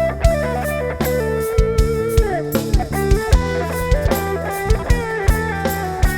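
Live band playing an instrumental passage through a PA: a bending lead guitar melody over a steady drum kit beat and bass line.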